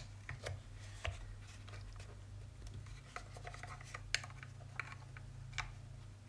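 Scattered light clicks and brief rubbing of plastic as a small handheld multimeter and its test leads are handled and fitted, over a steady low hum.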